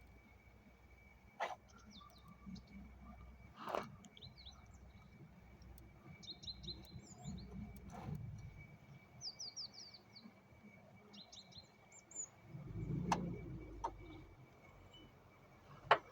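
Small birds chirping in several quick series of short high notes, with a few scattered knocks and clicks. A faint steady high-pitched tone runs underneath.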